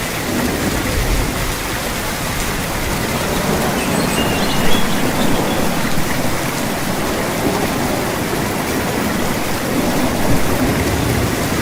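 Steady heavy rain falling, with a low rumbling swell underneath that may be distant thunder.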